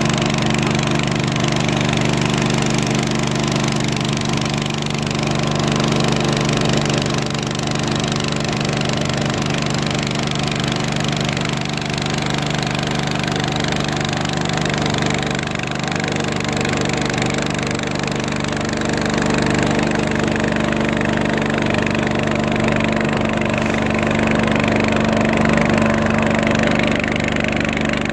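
An engine running steadily at an even speed, a constant hum over a wide hiss.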